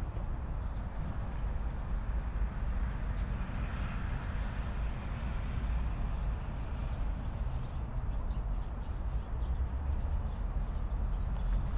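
Steady outdoor background rumble, deep and even, with a brief swell of hiss about four seconds in.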